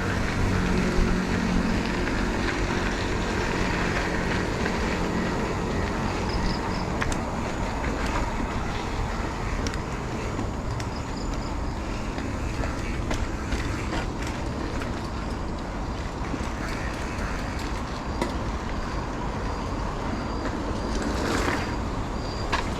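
Motorcycle running on the move, with steady wind and road noise. A low engine tone stands out for the first six seconds or so, then the rushing noise dominates.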